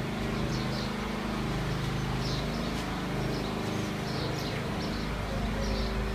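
A steady low mechanical hum, with small birds chirping high over it every second or so.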